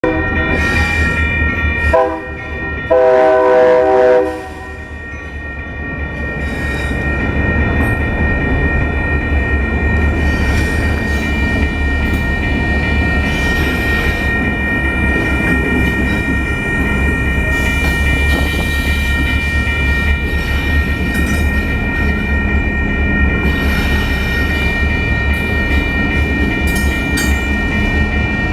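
Union Pacific freight train's locomotive horn: a short blast about two seconds in, then a louder, longer one. After it the train keeps rolling with a steady low rumble and wheel clatter.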